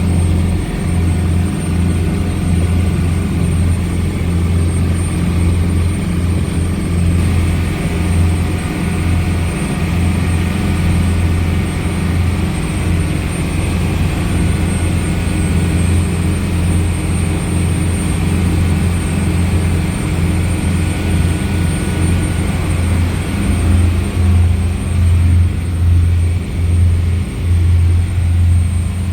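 Twin Mermaid turbo diesel engines of an Aquastar 33 motor cruiser running steadily under way, a loud low drone with a thin high whine over it. In the last few seconds the drone pulses unevenly.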